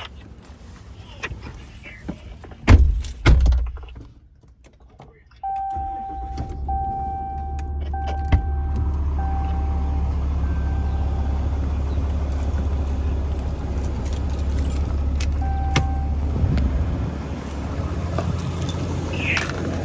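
Two heavy thumps of the pickup's door shutting. A few seconds later the truck's engine starts and settles into a steady idle, while the dashboard warning chime dings several times, fading.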